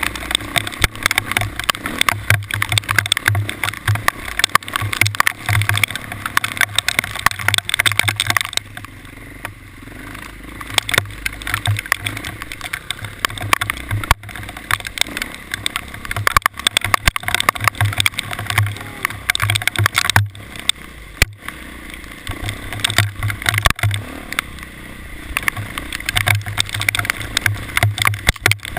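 Steady noise of a vehicle on the move: a dense run of irregular rattling clicks and knocks over a rushing sound, with a low hum that comes and goes.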